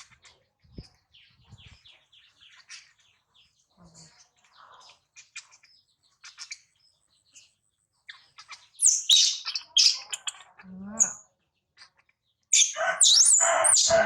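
Newborn monkey squeaking and chirping in high-pitched calls, faint at first, then loud squeals about nine seconds in and again near the end.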